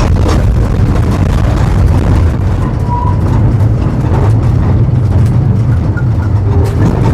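Vintage tram in motion on the track: a loud, steady low rumble with scattered clicks and knocks from the running gear.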